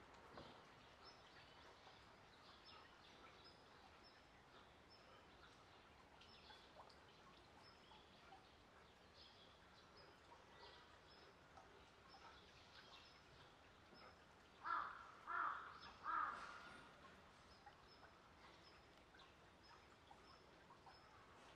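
Three loud bird calls in quick succession, a bit under a second apart, about two-thirds of the way in, over a quiet outdoor background with faint, high, repeated chirps.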